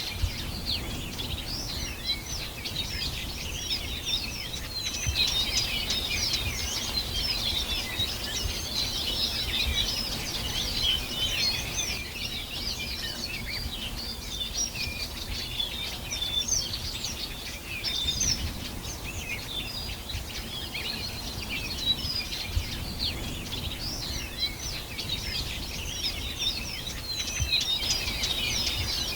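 A dense chorus of many small birds chirping and singing at once, quick high chirps overlapping continuously, over a low background rumble.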